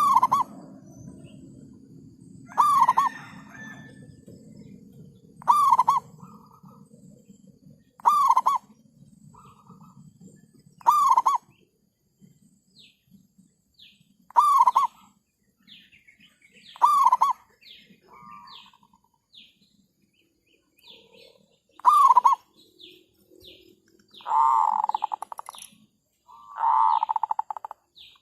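Zebra doves cooing: short, loud ringing coos repeat every two to three seconds, each followed by a brief soft trill. Two longer rolling, rapidly pulsed coos come near the end. Small birds chirp faintly in the background.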